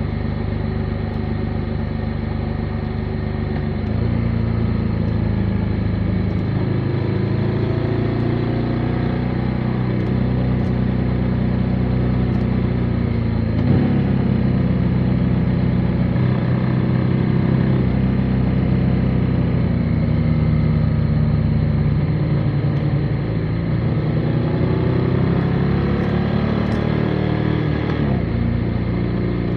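Motorcycle engine running under way, with wind and road noise. The engine note steps up about four seconds in and again around the middle, then drops off near the end and picks up again, as the throttle and gears change.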